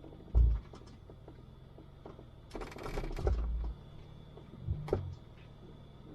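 Jeep crawling over rocks at low speed: a low engine hum under heavy thuds and clicking knocks, with a rough scraping, crunching noise for about a second midway.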